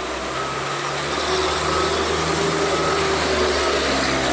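Heavy truck's diesel engine running steadily, labouring up a steep climb, over a constant hiss.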